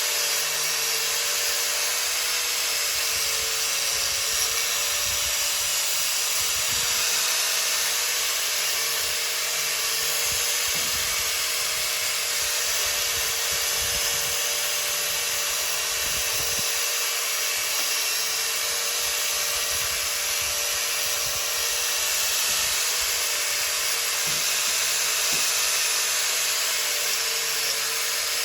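Electric power tool running steadily with a motor whine and a hiss of abrasion, cleaning rust off the metal parts of a baler's knotter.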